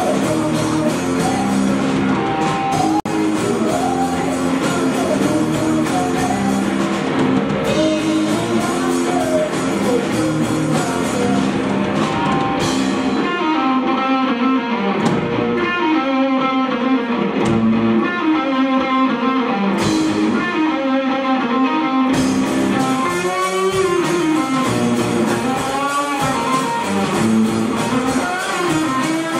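Rock band playing live, with guitar and drum kit and a singing voice over the middle and later part; the cymbals drop out for several seconds in the middle.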